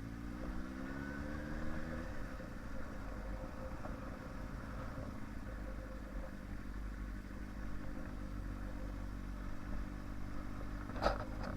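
A 2005 Yamaha inline-four motorcycle engine running while being ridden. The revs climb over the first couple of seconds, drop back, then hold steady. A brief rustle or knock comes near the end.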